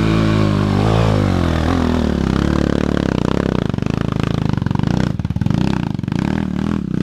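Dirt bike engine pulling hard up a muddy trail climb, its pitch rising and falling again and again as the throttle is worked, with a few knocks and clatters from the bike near the end. The bike is being ridden without a working clutch.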